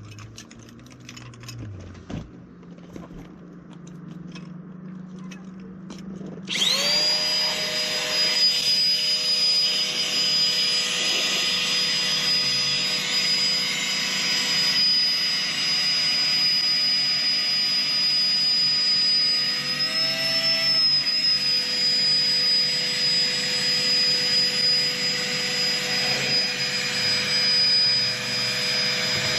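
Electric air pump switching on about six seconds in and running steadily with a high whine, blowing air into a boat's ballast bag to inflate it. Faint handling clicks come before it starts, and its pitch wobbles briefly about twenty seconds in.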